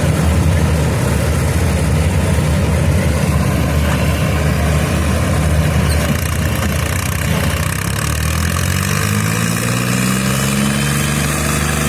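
Tractor diesel engine running steadily, then revving up with a rising pitch from about eight seconds in.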